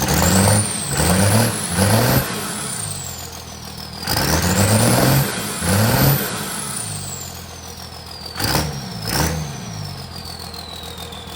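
Cummins 24-valve turbo diesel exhausting through a hood stack, revved in a series of throttle blips: three quick ones, then two longer revs, then two short blips before it settles back to idle. A high turbo whistle climbs with each rev and slowly winds down afterwards. The engine has only just been cold-started in the freezing cold.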